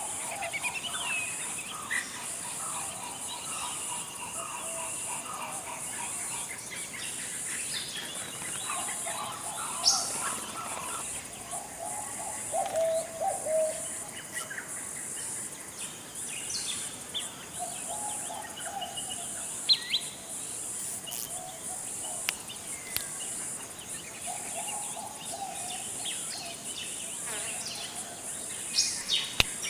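Forest ambience: a steady high-pitched insect drone, with various birds calling over it, some in short sharp chirps and some in lower warbled phrases that come and go.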